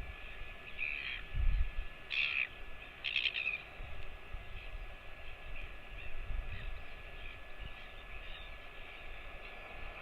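A bird calling: three short high calls in the first few seconds, the third broken into quick pulses, then only faint steady background.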